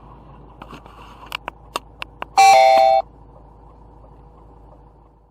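A handful of sharp clicks, then a loud electronic two-note chime, high then low, lasting about half a second: a ding-dong.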